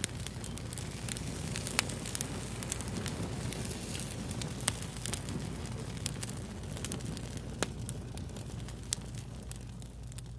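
Fire crackling: a steady hiss with sharp, irregular pops, the loudest about two, five and eight seconds in, over a low steady hum.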